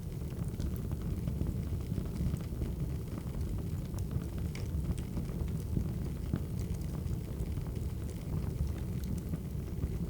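Wood fire crackling: a steady low rumble of burning logs with scattered small pops and crackles throughout.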